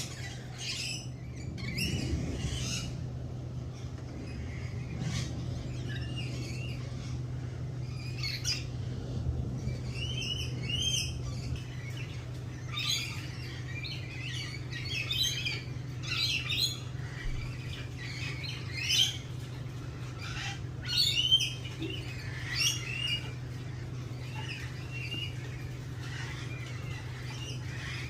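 Birds chirping and calling in a garden: many short, quick calls, busiest in the middle and loudest about 21 seconds in, over a steady low hum.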